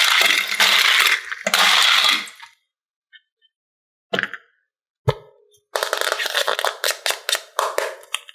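Hard plastic clicking and crackling in two rapid runs, with two single sharp knocks between them.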